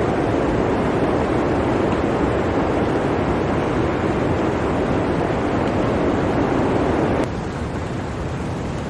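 Blizzard wind blowing as a steady rushing noise. A little over seven seconds in it abruptly drops to a lower, thinner level, like an edit or loop point in the recording.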